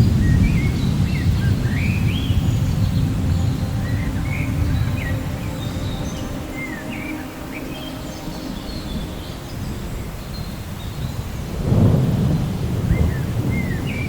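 Thunder rumbling: a low roll at the start that fades away over several seconds, then a second rumble swelling near the end. Rain hisses steadily underneath, and birds chirp over it.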